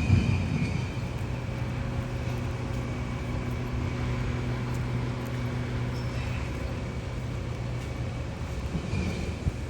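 Motor vehicle engine running in the street, a steady low hum, with a louder swell at the start and another near the end.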